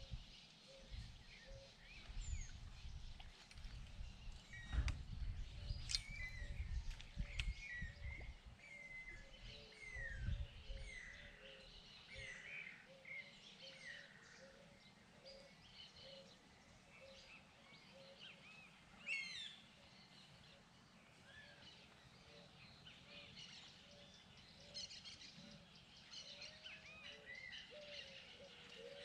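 Several birds chirping and singing in short phrases, over a low note that repeats about twice a second. Wind rumbles on the microphone during the first ten seconds or so.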